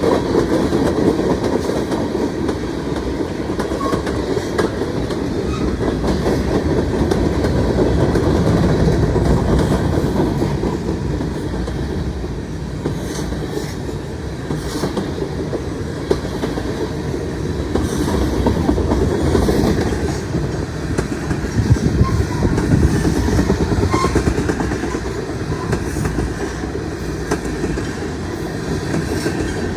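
Freight train cars rolling past, a steady rumble of wheels on rail with clickety-clack over the rail joints.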